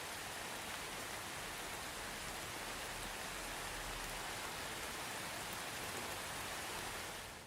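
Steady soft rain, an even patter without thunder, easing off just before the end.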